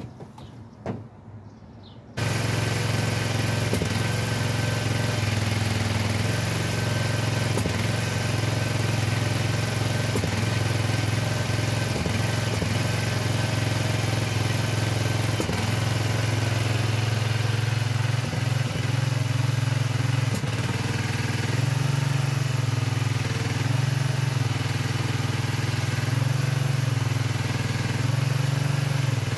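Engine running steadily at a low, even idle, cutting in abruptly about two seconds in; its low note wavers slightly up and down in the second half.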